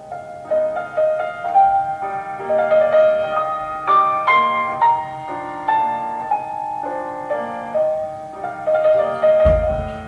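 Solo piano playing a gentle classical melody over a flowing accompaniment of separate notes, with a brief deep low thump near the end.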